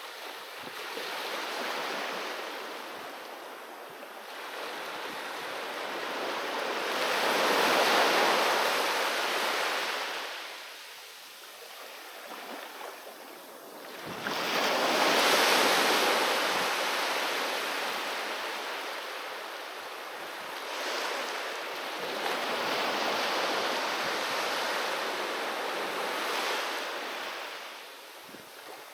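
Ocean waves breaking and washing up on a beach, the surf swelling and ebbing in slow surges every several seconds, with the biggest waves breaking about a quarter and a half of the way in.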